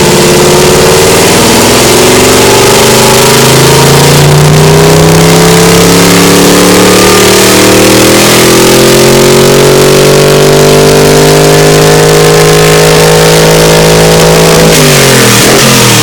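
Old car engine revved and held at high revs, its pitch creeping slowly upward, then dropping back sharply near the end. Very loud.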